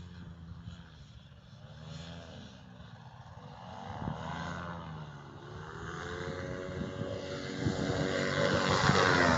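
Small engines running at a distance and drawing nearer, their pitch rising and falling several times and the sound growing louder toward the end.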